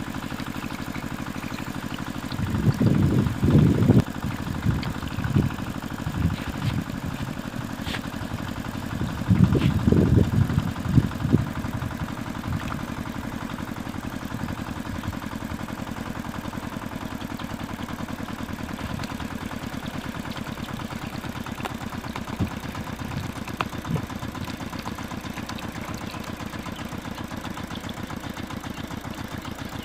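Small motor running steadily with a fast, even rhythm, louder twice in short low bursts about three seconds and ten seconds in.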